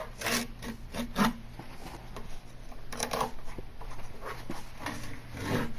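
Peel-and-stick edge banding being pulled off a particle board edge: irregular crackling and tearing as the adhesive lets go. The band is stuck firmly and tears particle board away with it.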